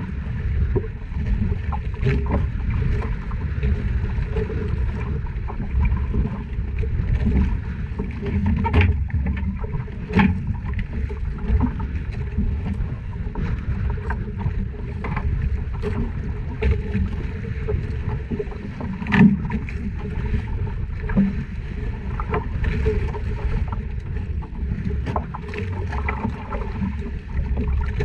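Small fishing boat at sea: a steady low rumble, with scattered short knocks and clicks.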